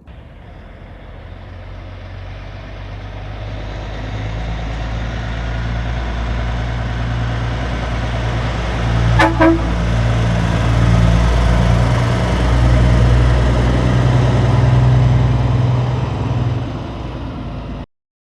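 Heavy semi-trailer truck's diesel engine rumbling and growing steadily louder, with two short horn toots about nine seconds in. The sound cuts off suddenly near the end.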